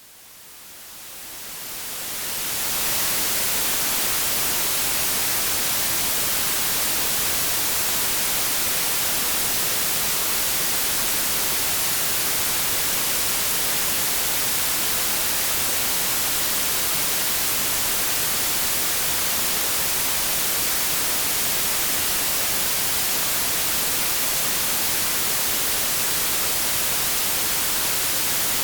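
Synthetic white noise: a steady, even hiss, strongest in the high range, that fades in over the first three seconds and then holds constant.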